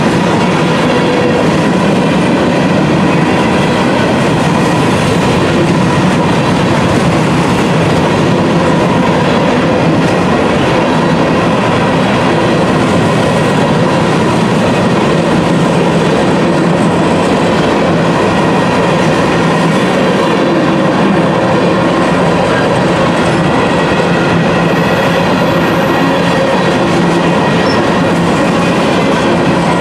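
Union Pacific freight train of hopper cars rolling past at steady speed, loud and continuous, its wheels clattering over the rail joints, with a steady high tone running through it.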